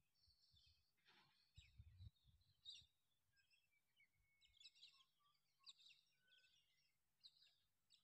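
Near silence, with faint, scattered bird chirps and short whistles throughout.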